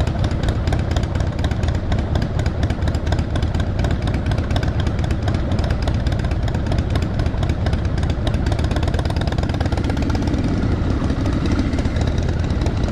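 Motorcycle engine running steadily, its rapid firing pulses continuous throughout.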